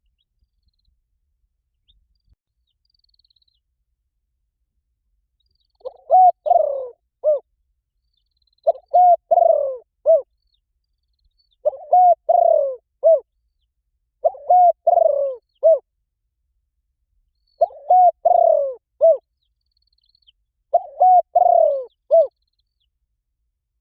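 Spotted dove giving its calling coo. After about six quiet seconds come six phrases, roughly three seconds apart. Each phrase is a few short coos around a longer coo that falls in pitch.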